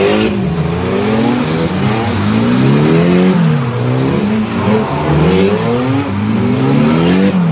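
Car engine revved hard up and down over and over, its pitch climbing and dropping about once every second or so.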